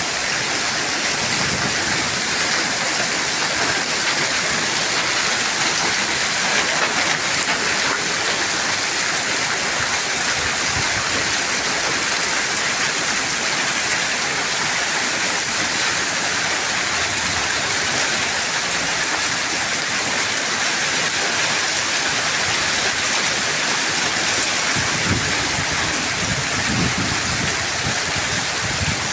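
Hailstorm with heavy rain pelting down in a steady, dense hiss, with some low rumbling near the end.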